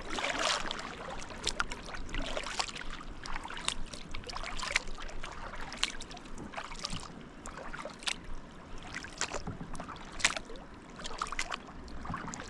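Kayak being paddled: irregular splashes and drips of water from the paddle, with small sharp knocks, over a steady wash of moving water.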